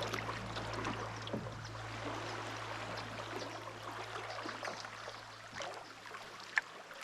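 Canoe paddling on a river: small splashes and drips of water off the paddle, with a steady low hum underneath that stops near the end.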